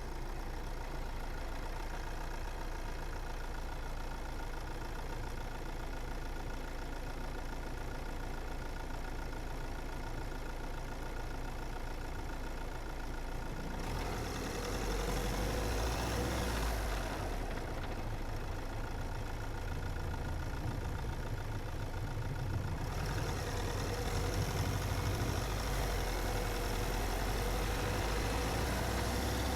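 Car driving along a road: steady engine and tyre noise, growing louder about halfway through, with a brief swell in the middle and a further rise near the end.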